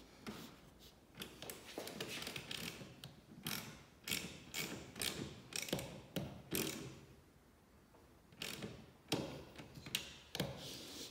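Hand work on small metal parts of a jeep headlamp assembly: irregular clicks and light metallic knocks, with a quieter stretch a little past the middle.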